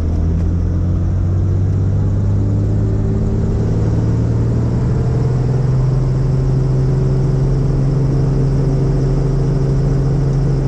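Helicopter engine and rotor running with a steady, loud drone. Its pitch rises between about two and six seconds in, then holds.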